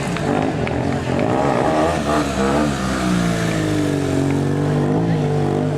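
Motorcycle engines revving, their pitch rising and falling again and again as the throttle is worked.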